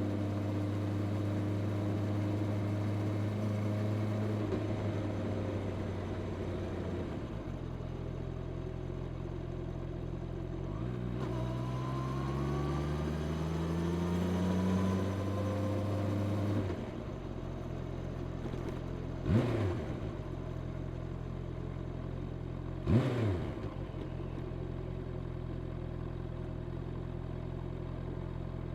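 Honda CB650R's inline-four engine through its stock exhaust while riding: a steady cruising note, a rising pull as it accelerates midway, then the throttle shuts and it drops to a lower steady note. Two short, sharp revs near the end are the loudest moments.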